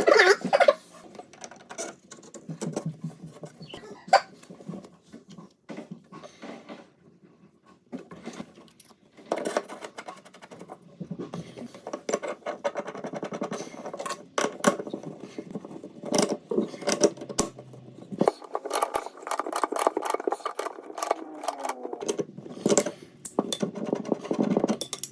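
Irregular clicks, knocks and scraping of hand tools and metal fittings being worked, as while fitting an angle stop valve onto a water supply pipe.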